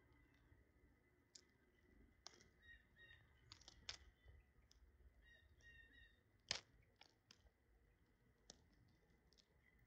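Faint, irregular clicks and taps of small birds pecking at food, the sharpest about six and a half seconds in, with soft, short high chirps between them.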